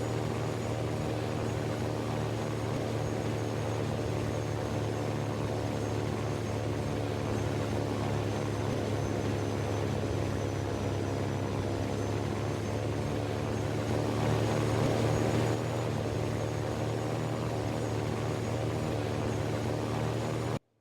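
A steady engine drone, even and unbroken, a little louder for a second or so about two-thirds of the way in, then cut off abruptly just before the end.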